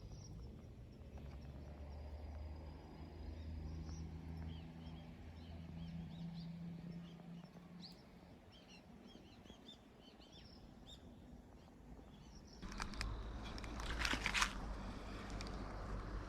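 Small birds chirping repeatedly over a low steady hum. About thirteen seconds in, louder rustling and knocking sounds begin.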